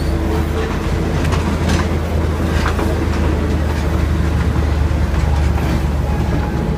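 Diesel railcar running slowly, heard at the open carriage window: a steady low engine rumble over the noise of the wheels on the rails, with a few light clicks.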